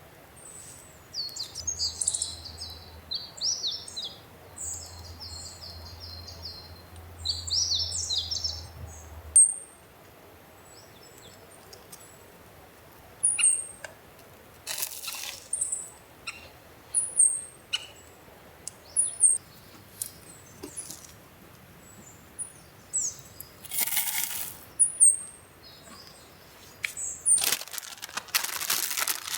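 Small birds chirping and calling: a dense run of high calls for the first third, then scattered short, falling chirps. There are three brief bursts of rushing noise, the loudest about two-thirds of the way in and just before the end.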